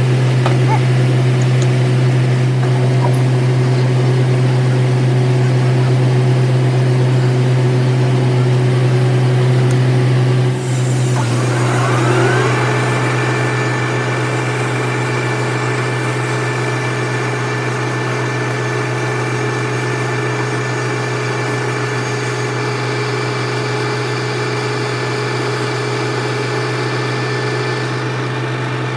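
Metal lathe running steadily with a strong low hum. About ten seconds in it dips briefly, then a whine rises in pitch and settles at a higher steady tone as the machine comes up to a new speed.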